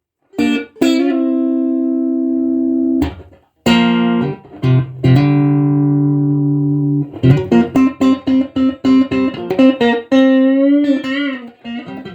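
A 1976 ash-body Stratocaster-style electric guitar being played. Two sustained, ringing notes or chords come first, then a quick run of single notes with bent, wavering notes near the end.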